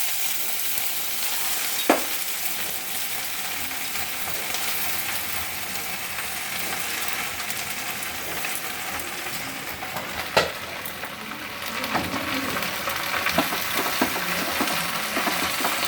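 Gongura (sorrel) leaves frying in hot oil in a pan: a steady sizzle as they are stirred, with two sharp knocks of the utensil against the pan, one about two seconds in and one about ten seconds in.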